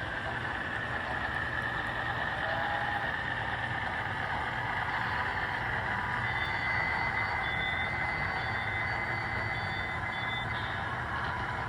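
Model diesel locomotive running on track with its onboard sound system playing diesel engine sound over the motor and wheel noise, a steady high tone above it. From about halfway there is a series of short, evenly spaced high beeps.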